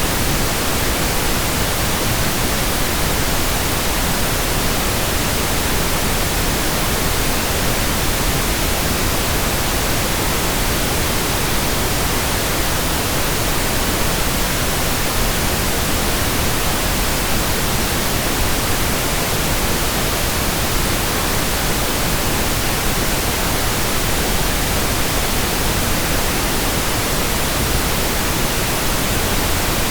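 Steady pink noise: an even, unchanging hiss across the whole range, fuller in the lows than white noise.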